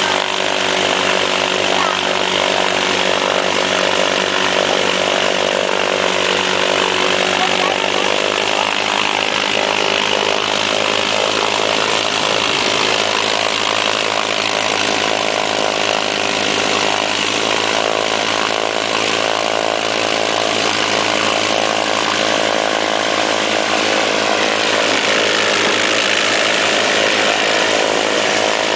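Homebuilt light aircraft's propeller engine running steadily, its pitch shifting slightly a couple of times.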